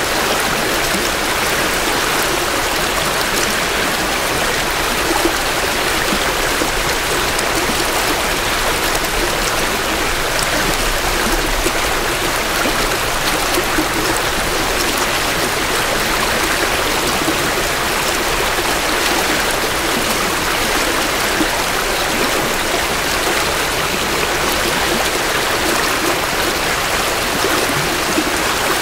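Creek water flowing steadily over rocks, a constant rushing and burbling with no breaks, picked up by microphones about two feet from the water.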